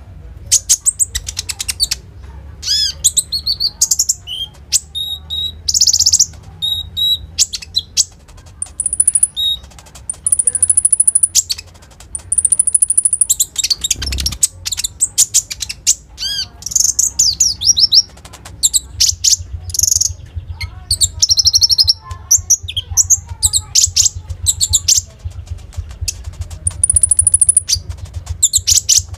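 Kolibri ninja (konin) sunbird singing in full voice: a fast, varied song of chirps, trills and high thin whistles in quick phrases, which the keepers call 'full isian', rich in the copied calls of other birds. A low steady hum runs underneath, and there is a dull thump about halfway through.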